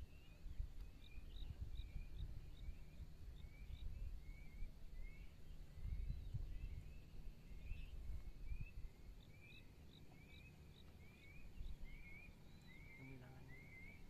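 Small birds chirping in a steady series of short, high, curving notes, about two a second, over a faint low rumble.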